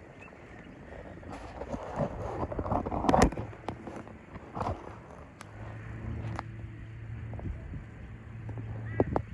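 A motor vehicle going past, loudest about three seconds in, followed by a steady low engine hum, with scattered clicks and ticks.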